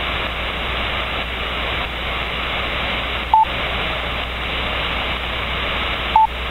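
Steady static hiss from a CB radio receiver on single sideband, with the sound cut off above about 4 kHz by the receiver's 4 kHz bandwidth setting. Two short, single-pitched beeps come through, one about halfway through and one at the very end.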